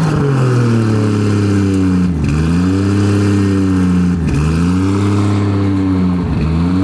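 Turbocharged 2JZ straight-six engine of a drift car being revved repeatedly through a straight 4-inch exhaust packed with cheap turbo-whistle inserts. The revs swell and fall back about every two seconds.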